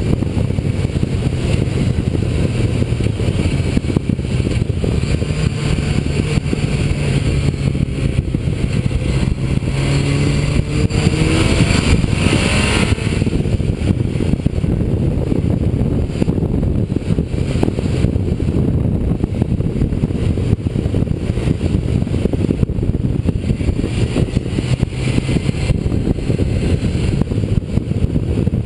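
Motorcycle engine running at road speed under heavy wind rush on the camera microphone. About ten seconds in, the engine pitch climbs for a couple of seconds as the bike accelerates.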